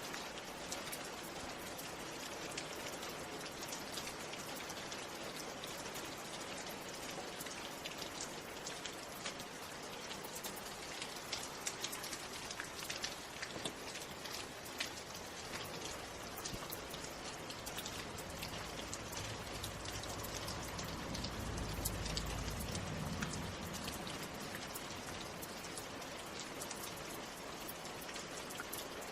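Steady rain with many separate drop hits. About two-thirds of the way through, a low rumble swells and fades.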